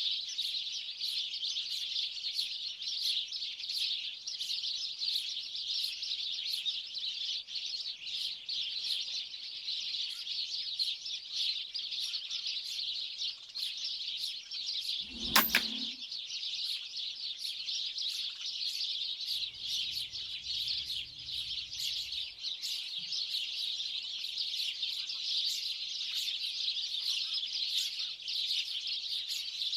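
A large flock of small birds chirping and chattering continuously, with one sharp shot about halfway through from an air rifle firing a slug pellet.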